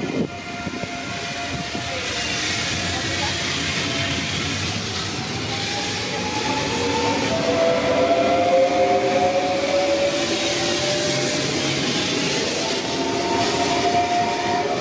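A train passing close by: a steady rush of wheels on the rails, with several whining tones that slowly rise in pitch from about six seconds in.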